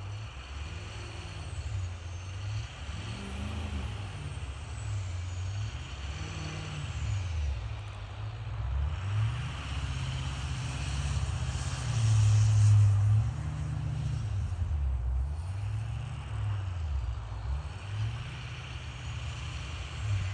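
Ford Power Stroke turbodiesel engine revved again and again, its note rising and falling. The turbo's high whistle glides up and down over it, with a hissing turbo flutter as the throttle comes off. The loudest rev comes about twelve seconds in.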